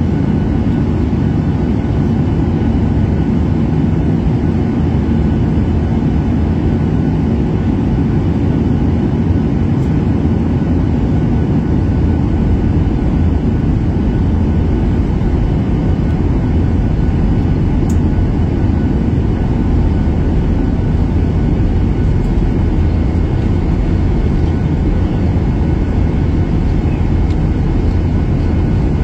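Airliner cabin noise: a steady low rumble of engines and airflow heard from inside the passenger cabin, with a faint steady high whine above it.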